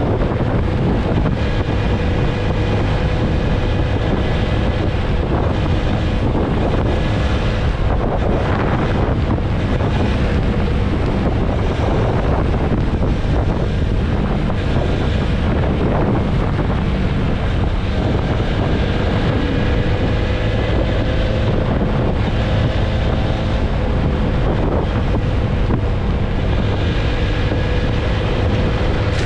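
Wind buffeting the microphone of a TVS Apache RTR 160 4V motorcycle at steady highway speed, with the bike's single-cylinder engine running evenly underneath.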